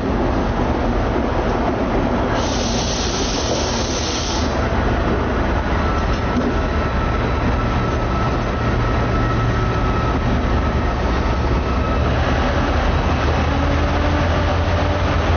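Train at a station: a steady low rumble, with a loud hiss lasting about two seconds near the start.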